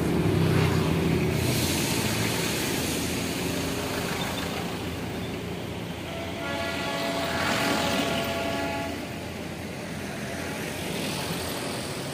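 Steady road and engine noise as the Darjeeling Himalayan Railway toy train's coaches pass, with a low rumble in the first second or so. A horn is held for about two seconds a little past the middle.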